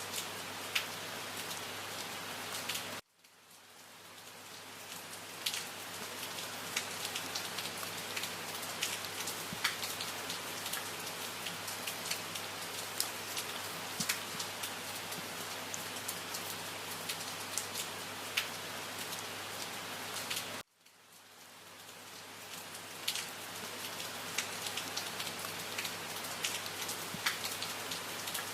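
Steady rain with individual drops ticking throughout. The rain cuts out abruptly twice, about three seconds in and again about twenty-one seconds in, each time fading back in over a few seconds.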